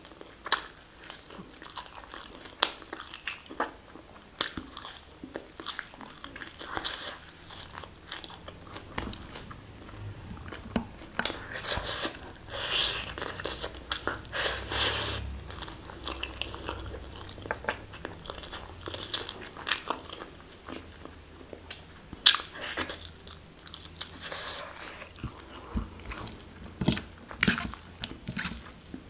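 Close-miked eating sounds: wet chewing and sharp mouth clicks as a mouthful of basmati rice and mutton curry, eaten by hand, is chewed, with irregular smacks scattered through.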